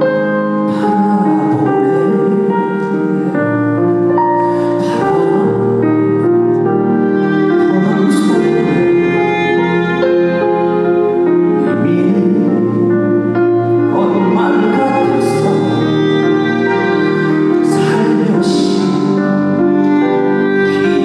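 A slow ballad played live by a band with piano, long held melodic notes over a steady accompaniment; the singing may carry on over it.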